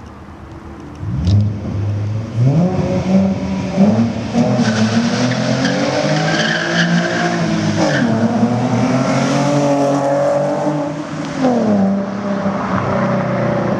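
2017 Ford Mustang with an aftermarket Loudmouth centre-section exhaust accelerating hard. The engine note starts about a second in and climbs, then drops sharply twice, about two-thirds of the way in and again near the end, as it shifts up, climbing again after each drop.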